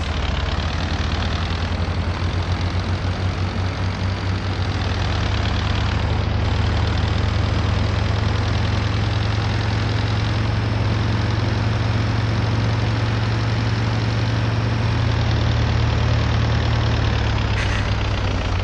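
MAZ-241 city bus's diesel engine running steadily, a deep constant drone heard from inside the bus, with a few short rattles near the end.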